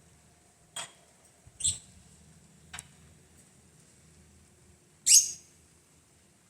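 Four short, light clinks of kitchenware, such as a utensil against a dish. The fourth, about five seconds in, is the loudest and rings briefly.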